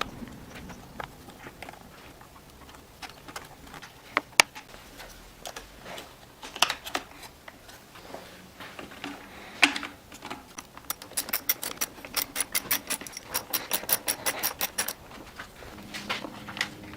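Hand work on a chainsaw: scattered clicks and knocks of tools and parts being handled, with a rapid even run of clicks, about six a second, lasting roughly four seconds in the middle.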